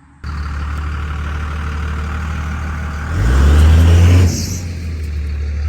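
Second-gen Dodge Ram's VP44 Cummins diesel idling through new 4-inch to dual 5-inch exhaust stacks with a muffler, revved once about three seconds in for about a second before dropping back to idle.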